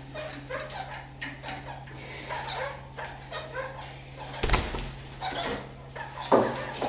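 Red-crowned kakariki chattering with many short, quick calls. A knock or bump sounds about halfway through, over a steady low hum.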